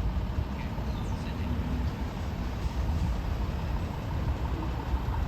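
Low steady rumble of an approaching Caltrain commuter train at the station, with a few faint squeals about a second in.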